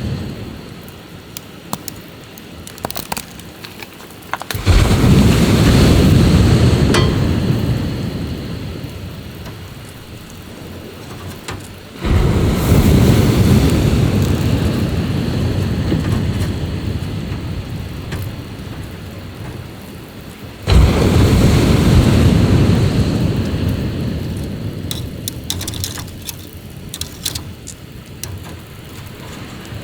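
Sea waves breaking on the shore three times, about eight seconds apart; each one comes in suddenly and washes out over several seconds. Faint scattered clicks fall in the lulls between them.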